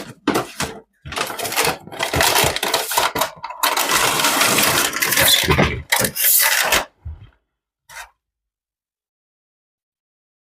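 Hard objects clattering and scraping as they are handled, a run of irregular knocks and rustles that stops suddenly about seven seconds in, then silence apart from one short tap.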